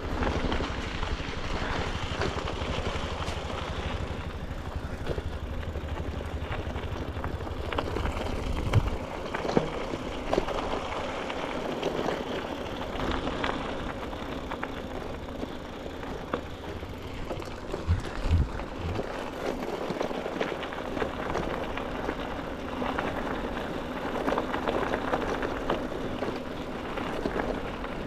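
Riding a bicycle: wind rushing over the microphone and tyre noise from rolling over the ground. A heavy low rumble eases about nine seconds in, and there are a few short knocks, like bumps in the surface, around nine and eighteen seconds in.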